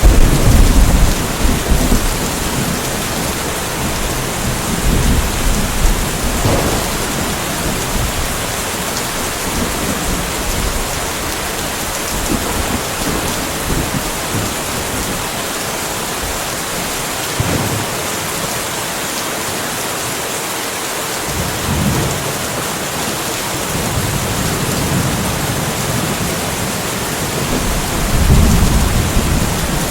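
Steady rainfall with rolling thunder: a low rumble of thunder swells right at the start and again near the end over the even hiss of the rain.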